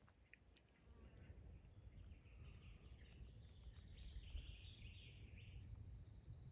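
Near silence outdoors: a steady low rumble with a few faint, distant bird chirps and some faint chattering calls in the middle.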